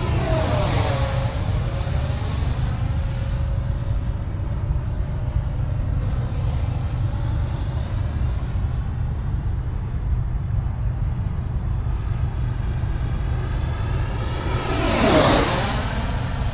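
Freewing F-86 Sabre RC jet's 80 mm electric ducted fan whining in flight, passing close twice: just after the start, with the pitch dropping as it goes by, and loudest about 15 seconds in. A steady low rumble runs underneath.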